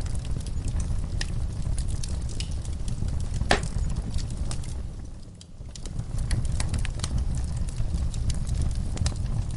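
Fireplace crackling: scattered sharp pops and snaps over a steady low rumble, with one louder pop about a third of the way in. The sound fades briefly a little past the middle, then returns.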